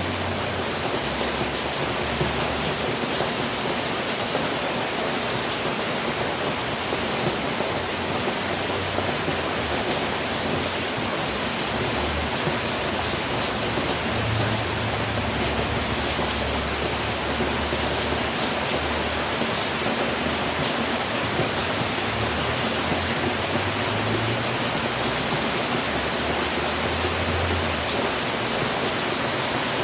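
Steady rain falling on a house roof: an even, unbroken hiss, with a low rumble that comes and goes.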